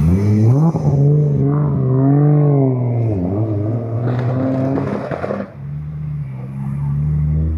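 Car engine revving, its pitch rising and falling several times. About five and a half seconds in it drops back and runs at a steady lower pitch.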